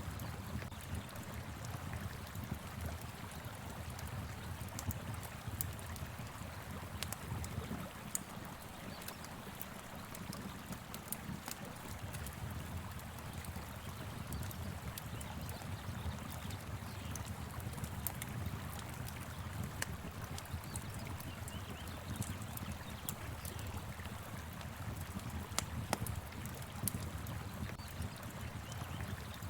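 Steady low rush of a flowing river, with a wood fire crackling over it in scattered sharp pops.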